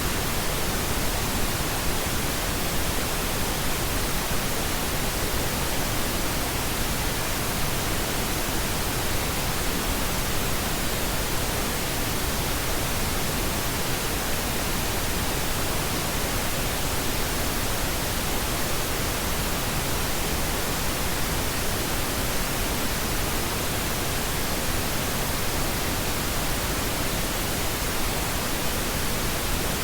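Steady pink noise: an even, unchanging hiss spread across all pitches, without a break.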